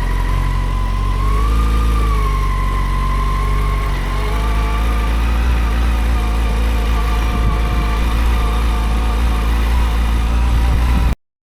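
Yamaha FZ6 motorcycle's inline-four engine running steadily with a deep rumble and a whine that bends up and back down about a second or two in. It cuts off suddenly near the end.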